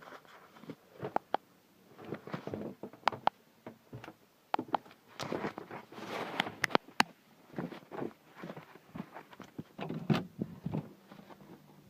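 Irregular footsteps, knocks and rustling of someone moving about a small room, with several sharper knocks.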